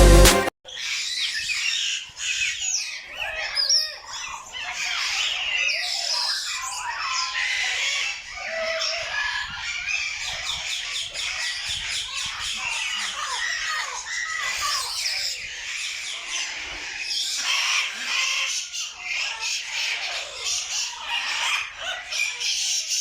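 A flock of many birds chirping and squawking at once, a dense and unbroken chorus of short, high calls.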